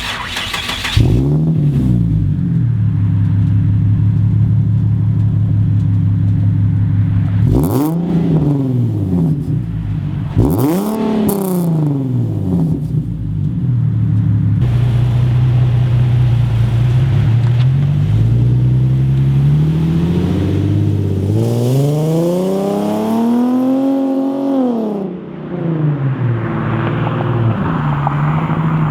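Nissan 370Z's 3.7-litre V6 through a catless single-exit race exhaust, starting up and settling into a steady idle. It is revved in two short blips about a third of the way in, then given one longer, higher rev that falls back to idle near the end.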